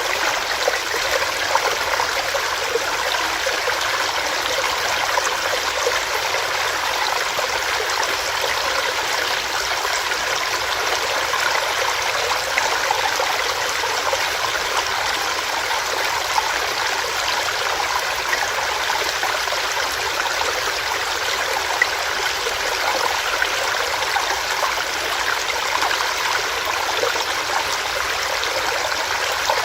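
Small rocky stream: water running steadily over rocks, with a constant splashing and burbling.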